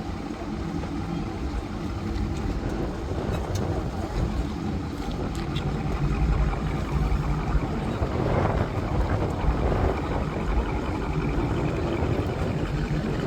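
Car engine running, a low rumble that grows louder about six seconds in.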